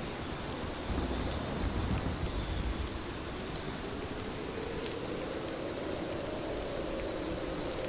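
Heavy rain falling steadily, with a low rumble from about one to three seconds in.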